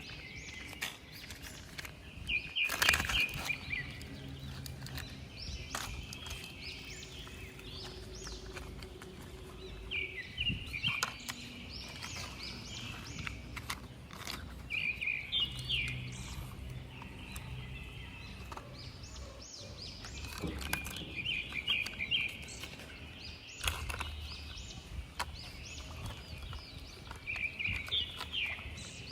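Small birds chirping in short repeated series every few seconds over faint outdoor background noise, with a few sharp knocks.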